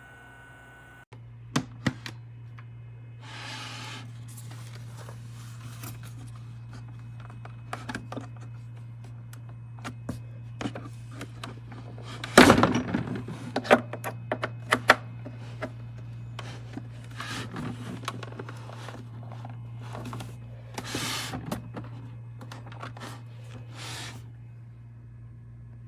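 A steady low electrical hum, with scattered clicks, knocks and rustles of something being handled close by, and one loud knock about halfway through.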